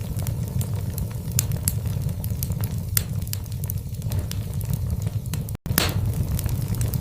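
Wood fire in a fireplace, burning logs crackling and popping with many sharp snaps over a steady low rumble. The sound cuts out for an instant about five and a half seconds in.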